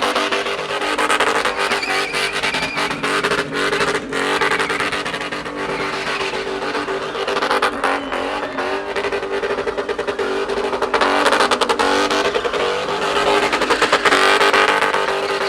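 A car engine revving hard and held at high rpm, the pitch wavering only slightly.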